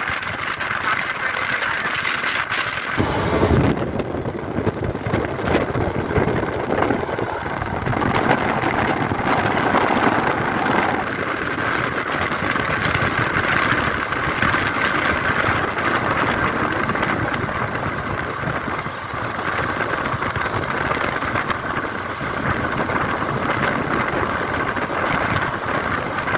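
Passenger train running at speed, heard from the open doorway of a sleeper coach: a steady rush of wheel and track noise mixed with wind. A brief louder rush comes about three seconds in.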